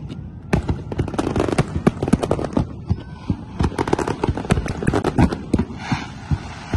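Fireworks display: a dense, irregular barrage of bangs and crackles as shells burst overhead.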